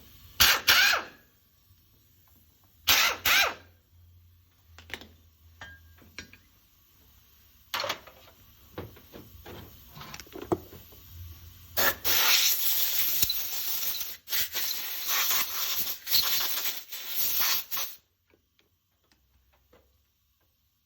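Workshop tool and metal-handling sounds from work on a car air-conditioning compressor: two short bursts of scraping or rubbing in the first few seconds, scattered clicks, then about six seconds of continuous rough noise that cuts off suddenly, followed by quiet.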